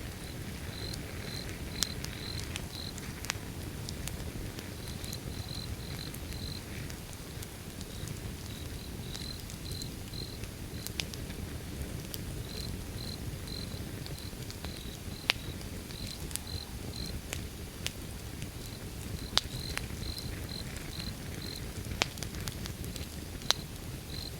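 Wood fire burning with a low steady rumble and sharp crackling pops every few seconds. A cricket chirps in runs of a few chirps a second throughout.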